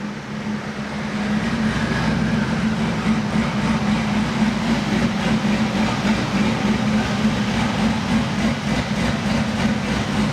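Twin-turbo C6 Corvette Z06 V8 running at a steady speed on a chassis dyno, a constant drone with rumble from the dyno rollers.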